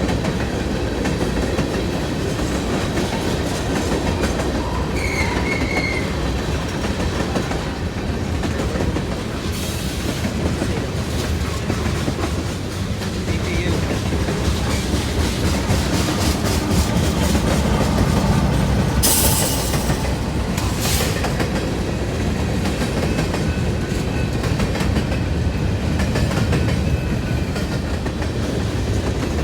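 Norfolk Southern freight train rolling past close by, its wheels clattering steadily on the rails. Two brief sharp bursts of noise come about two-thirds of the way through.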